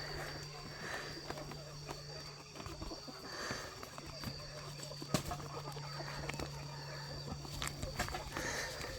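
Chickens clucking softly, with a few scattered short calls over a faint steady hum, and one sharp click about five seconds in.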